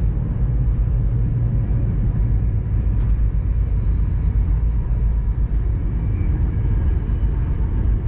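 Steady low rumble of the VIA Rail Canadian passenger train rolling along the track, heard from on board.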